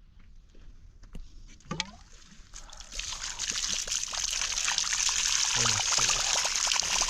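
Water trickling and splashing, coming in about three seconds in and growing louder, then running steadily.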